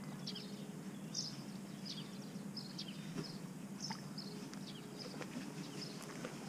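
Small birds chirping: short high notes repeating several times a second, over a steady low hum.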